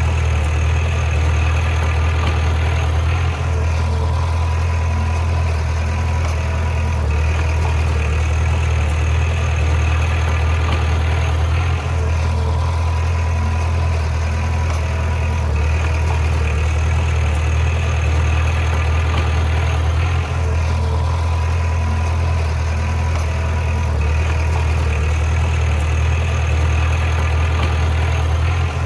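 Bulldozer's diesel engine running steadily with a low, even drone, and a brief small dip in level about every eight seconds.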